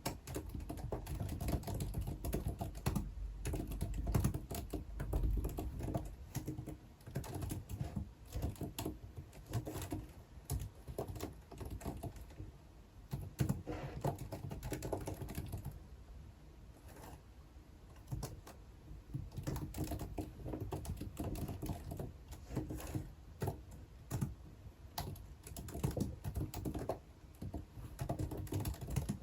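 Typing on a computer keyboard: irregular runs of key clicks with brief pauses between bursts.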